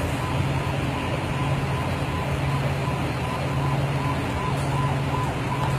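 Steady hiss of heavy rain, with a low steady engine hum underneath.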